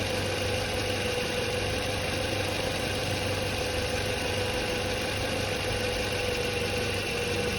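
Car engine and alternator running at idle, with a steady whine held at one pitch over the engine noise.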